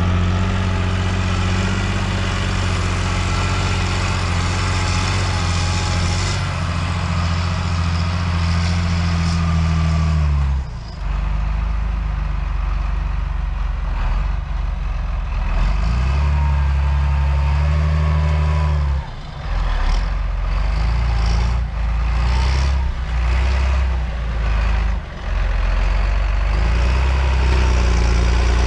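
John Deere 8400 tractor's six-cylinder diesel engine running hard while pulling a McConnel subsoiler. It holds a steady note, sags about ten seconds in, picks back up a few seconds later, then rises and falls several times as the load changes.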